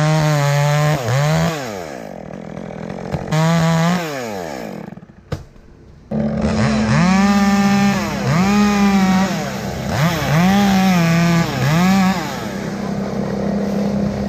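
Chainsaw engine running at high revs, its pitch dipping and climbing again several times. It drops back to a low idle for about a second partway through, then revs repeatedly.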